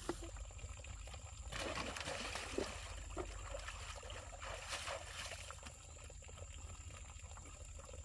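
Water trickling and pouring, irregular, with louder splashes about two seconds in and again near the middle, as water is thrown on a burning pig pen.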